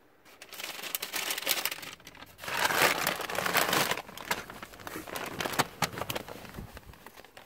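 Rustling and crinkling handling noise with many sharp clicks and knocks, loudest from about two and a half to four seconds in, as a person gets out of a car.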